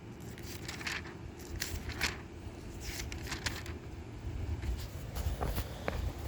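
Bible pages rustling as they are turned, with scattered light crackles and scrapes over a steady low rumble.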